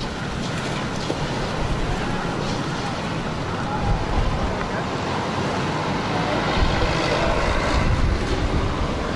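Gale-force wind blowing steadily, with gusts buffeting the microphone in a low rumble.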